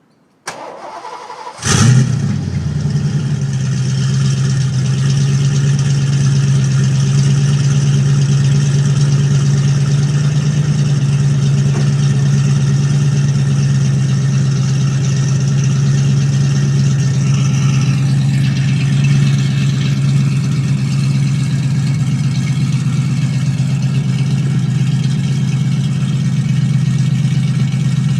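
1988 Ford Mustang 5.0 V8 cranked by the starter, catching after about a second with a loud flare, then settling into a steady idle. The exhaust runs through Spintech Pro Street 9000 mufflers and a catless X-pipe, open with no tailpipes.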